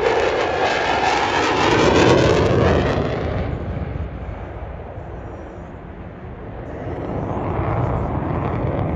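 F-16 fighter jet flying its display, the loud noise of its single jet engine sweeping in pitch as it passes. It fades away about four to six seconds in, then builds again near the end as the jet comes back round.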